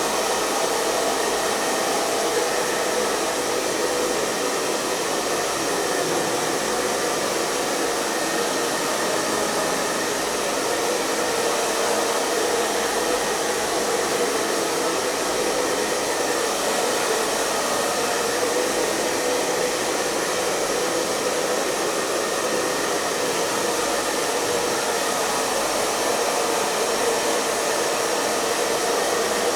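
Hair dryer running steadily: an even blowing rush of air with a faint steady motor hum underneath, unchanging throughout.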